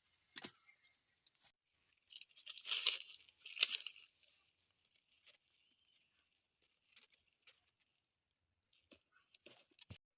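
Crackling, tearing sounds of plant material being handled, loudest between two and four seconds in. A short, high, trilled chirp repeats five times, about every second and a half.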